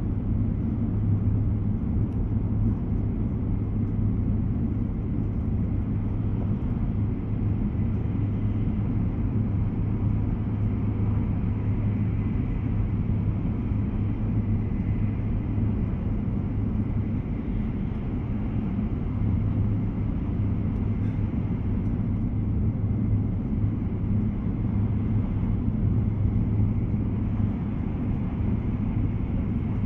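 Steady running noise inside an E2 series Shinkansen car at speed: an even low rumble of wheels on rail, with no change in pace.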